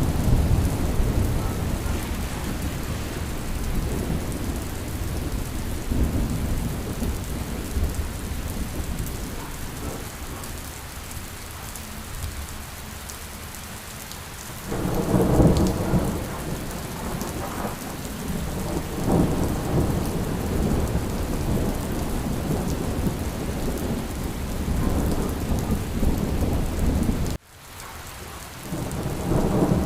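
Steady rain with rolling thunder, and a loud peal of deep rumbling thunder about halfway through. Near the end the sound cuts out abruptly for a moment before the rain comes back.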